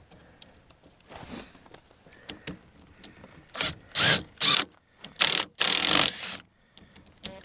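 A hand tool working on the snowmobile's fuel-line fittings: quiet fiddling at first, then several short, harsh mechanical bursts from about halfway through, the longest just before the end.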